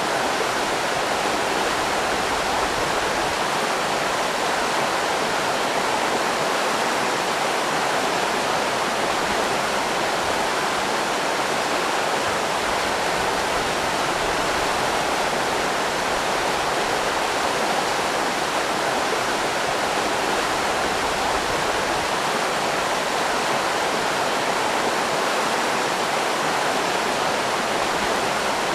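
River rapids: a steady rush of fast-flowing water over rocks.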